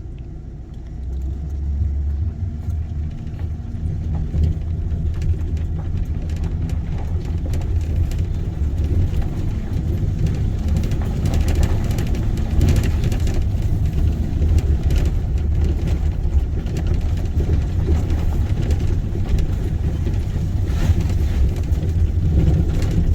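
Truck driving over a rough dirt road, heard from inside the cab: a steady low rumble of engine and tyres that grows louder about a second in, with frequent knocks and rattles from the bumps.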